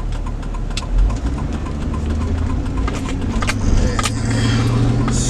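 Car engine running with a steady low hum and a fast light ticking, about six ticks a second. There is a thump about a second in, and the engine note grows stronger near the end.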